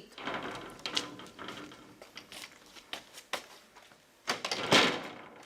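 Someone coming in through a door: a run of clicks, knocks and footsteps, with the loudest clatter a little before the end.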